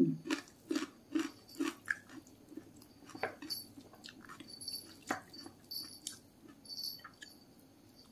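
Close-up sound of a person chewing a hand-fed mouthful of rice with pepes tofu and raw cucumber: moist mouth clicks and smacks, about two chews a second at first, then more scattered.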